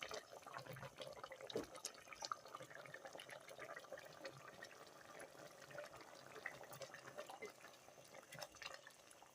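Faint dripping and splashing of water with scattered light clicks.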